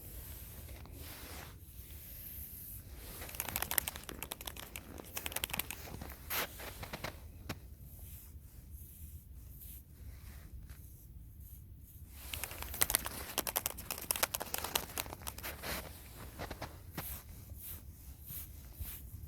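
Dry plant material being torn and crumpled by hand: crackling and rustling in two busy spells, with quieter handling between them.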